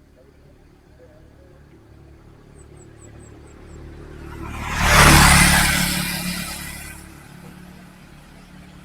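A motor vehicle passing close by. Its engine and tyre noise build over a couple of seconds, peak around the middle, then fade away.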